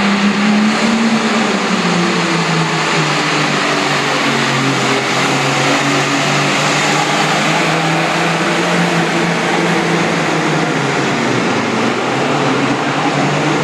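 John Deere 4320 pulling tractor's diesel engine running hard under load. Its pitch drops over the first few seconds, then holds steady.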